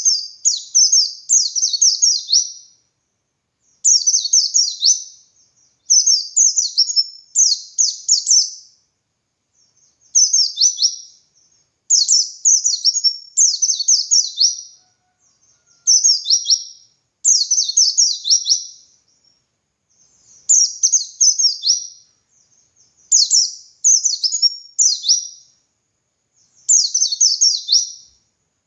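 White-eye (pleci dakun) singing in the 'ngalas' style: bursts of rapid, high, falling chirps strung into phrases of a second or two, repeated with short pauses between them.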